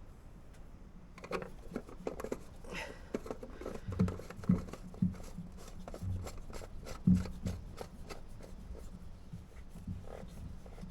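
Hands working on engine parts during an oil filter change: a run of small clicks, taps and knocks, with a few louder knocks in the middle.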